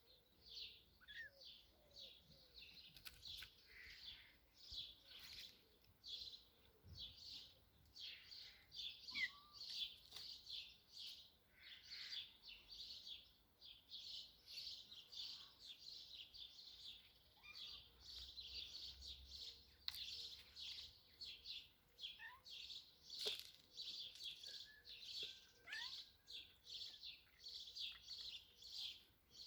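Faint, fast high-pitched chirping of small birds, many chirps a second without a break, with a few softer rising calls among them.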